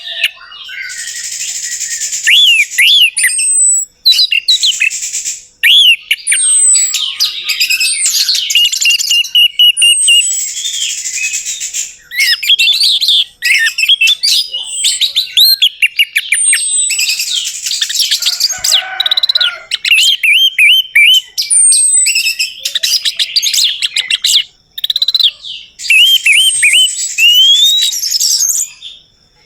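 Orange-headed thrush (anis merah) singing: long runs of rapid chattering and whistled notes with repeated high downward slurs, broken by a few short pauses.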